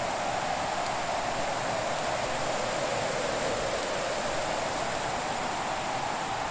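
Steady, even rushing hiss of a winter fireplace ambience, with hardly any crackling.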